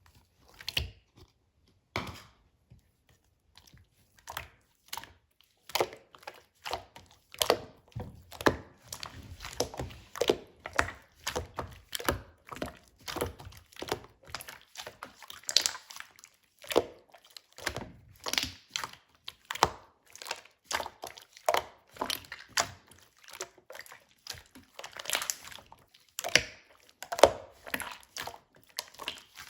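Slime being squished and stretched by hand, giving irregular sticky squelches and small popping clicks of air bubbles. It is sparse for the first few seconds, then runs on in a dense, uneven stream.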